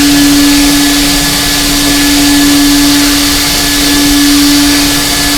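Vacuum cleaner running steadily on a car's interior, a loud constant motor hum under a hiss of rushing air.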